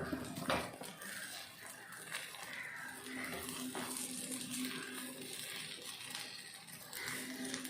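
Egg batter balls sizzling faintly in hot oil in a paniyaram pan while they are turned, with a few light clicks of a utensil against the pan over a low steady hum.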